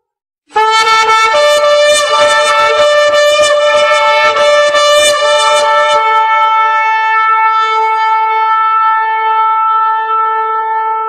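Long held horn blasts that start abruptly about half a second in, with several notes sounding together in a rough, blaring mass. After about six seconds one steady note holds on alone.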